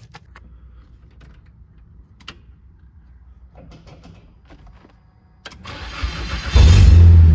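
Nissan 240SX's SR20DET turbocharged four-cylinder turned over on the starter for about a second, then catching and running loudly near the end. Faint clicks of handling come before it.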